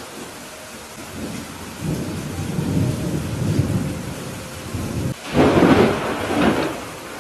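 Steady rain falling with thunder. A low rumble builds about a second in, then a sharper, louder thunderclap breaks about five seconds in and rolls away near the end.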